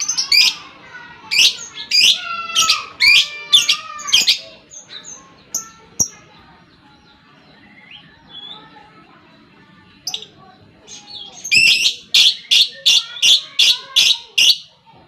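Lovebird's chattering song ('ngekek'): rapid strings of shrill, rasping notes in two bouts, with a quieter stretch of a few softer chirps between them.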